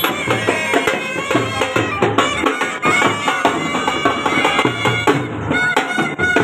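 Traditional Haryanvi band music: a loud wind-instrument melody of held reedy tones over a steady drum beat.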